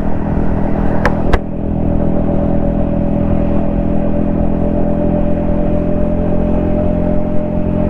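Yamaha XSR155's single-cylinder engine running steadily under way. Two sharp clicks come about a second in, after which the engine settles to a steady, slightly different note.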